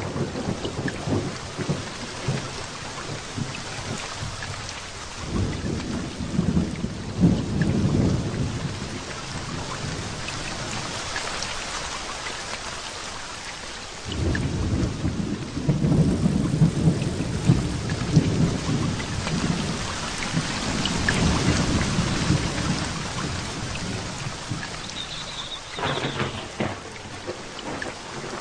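Heavy rain falling steadily through a thunderstorm, with rolling thunder: low rumbles a few seconds in and a longer, louder one starting about halfway through.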